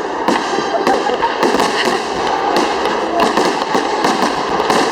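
Fireworks display going off: a dense, continuous crackling with sharp cracks and bangs coming irregularly, several a second.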